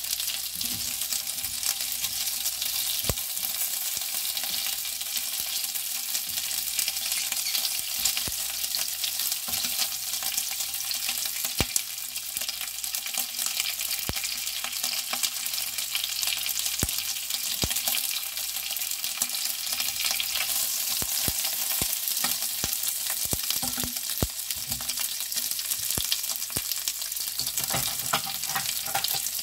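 Cocktail sausages sizzling in hot oil in a nonstick frying pan: a steady crackling hiss with scattered sharp clicks, stirred now and then with a silicone spatula.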